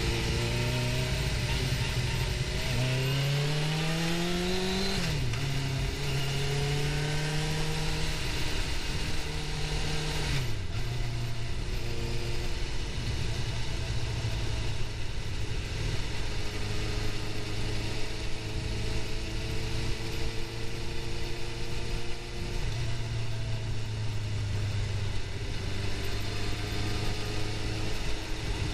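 Suzuki GSX-R750 inline-four motorcycle engine running under way: it revs up for about two seconds, drops sharply with a gear change about five seconds in, holds steady, drops again about ten seconds in, then runs steadily and picks up slightly about twenty-two seconds in, with wind rush throughout.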